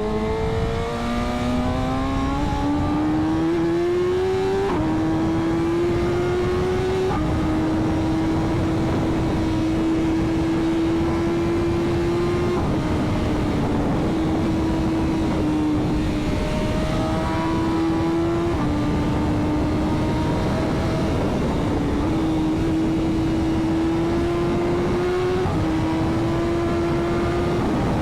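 Superbike engine accelerating hard through the gears, its pitch climbing and dropping back at each shift in the first seven seconds or so, then running at high, fairly steady revs with small changes in pitch. Heavy wind rush runs under it throughout.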